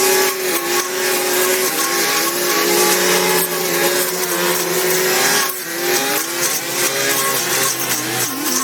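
A small, high-revving engine or motor running steadily, its pitch dipping briefly several times as it comes under load near the end.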